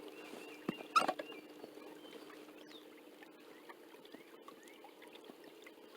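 Inflatable boat easing in against a dock: scattered small knocks and clicks, with a louder knock and squeak about a second in, over a steady low hum.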